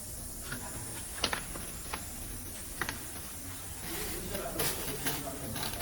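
Abrasive-belt production machinery running: a steady high hiss with scattered sharp clicks and ticks.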